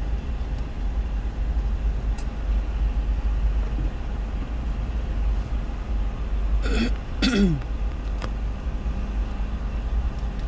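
Union Pacific freight train's tank cars and hoppers rolling past, a steady low rumble heard from inside a car. About two-thirds of the way in, a person clears their throat twice.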